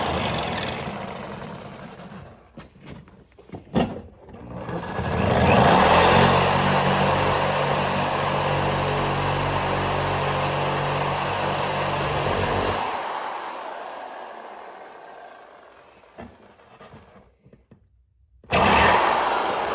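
Jigsaw cutting a metal exhaust pipe. It runs briefly, stops with a few clicks, then runs steadily for about seven seconds before winding down, and starts up again near the end.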